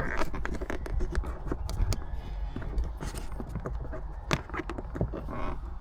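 Irregular clicks, taps and knocks of plastic interior trim and headliner being pushed and worked by hand as a dash cam cable is tucked in, with one sharper click about four seconds in.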